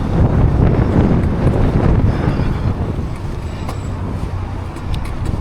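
Wind buffeting the microphone of a moving e-bike rider, a steady low rumble with road noise underneath.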